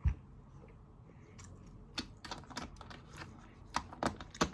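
Scattered light clicks and taps, a handful in a few seconds, from metal tweezers working pieces out of a plastic Operation game board.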